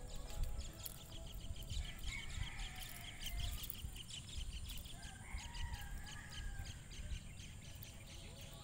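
Wild birds chirping and calling, with a fast run of repeated high chirps in the first half and short whistled notes, over a low, gusty rumble of wind on the microphone.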